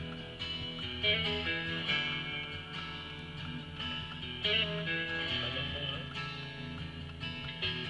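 Guitar-led music playing, heard inside a moving car, most likely from the car radio.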